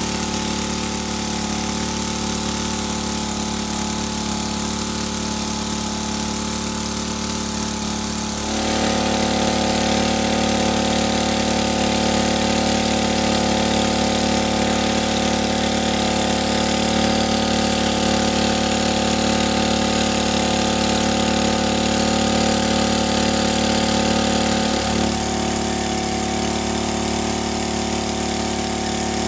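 A motor running steadily, with a sudden change in its tone and loudness about eight seconds in and again near the end.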